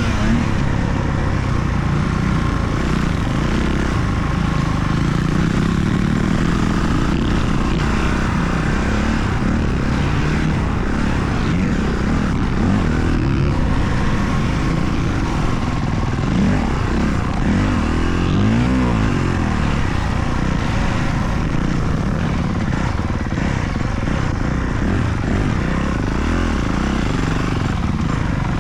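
Motocross dirt bike engines running on the track, revving up and down, with a rising and falling pitch about two-thirds of the way through.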